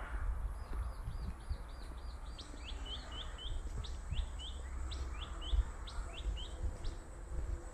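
A small bird singing a long run of quick, high repeated notes, lasting about six seconds; the notes come fast at first, then more spaced out in short groups. A low rumble and light knocks sit underneath.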